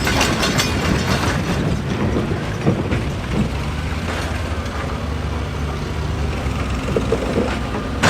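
A heavy machine's engine running steadily, with scattered knocks and rattles over it.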